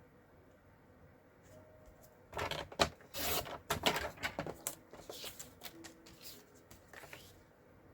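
Cardstock being handled and cut: paper rustling and scraping about two seconds in, lasting a couple of seconds, with scattered light taps and clicks.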